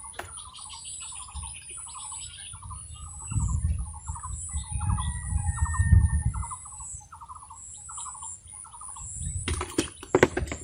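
A bird calling over and over in short chirps, about two a second, with a thin high insect drone behind it. A low rumble swells in the middle, and a run of sharp clicks and knocks starts near the end.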